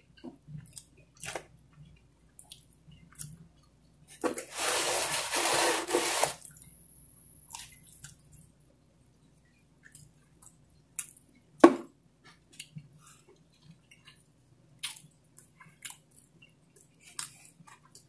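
Close-miked chewing and wet mouth sounds of a person eating pizza: many small smacks and clicks. There is a louder noisy stretch of about two seconds some four seconds in, and a single sharp click in the middle.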